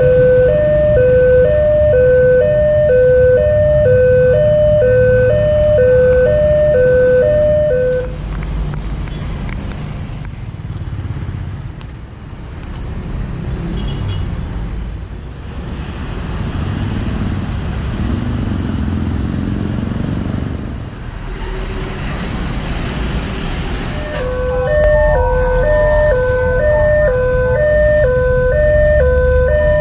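Railway level-crossing warning alarm sounding a two-tone electronic melody, stepping between a lower and a higher note about once a second over a low rumble of traffic. It stops about 8 seconds in; a rising rush of passing-vehicle noise follows, and the alarm starts again about 24 seconds in.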